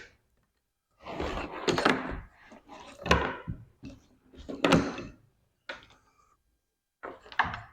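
Handling noise from unpacking and sorting a wiring harness kit: a series of irregular rustling, shuffling bursts with knocks, a short sharp click just before the end, then more handling.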